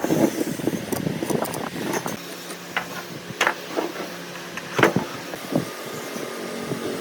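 Scattered knocks and taps from workshop handwork, with a steady low machine hum that starts about two seconds in.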